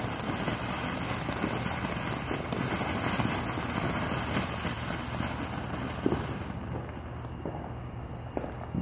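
Backyard fountain firework spraying with a steady hiss that dies away about six and a half seconds in, followed by a few faint pops.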